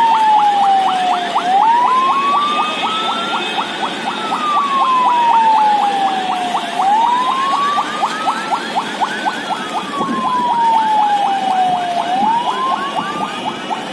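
A siren wailing, its pitch rising slowly and then falling in a cycle of about five seconds, with a quick pulsing of about five beats a second under it.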